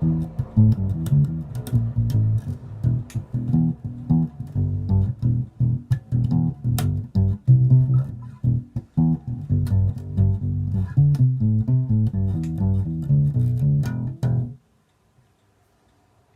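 Epiphone EB-3 electric bass played in a brisk run of plucked notes, several a second, with a sharp attack on each note. The playing stops about two seconds before the end and leaves near silence.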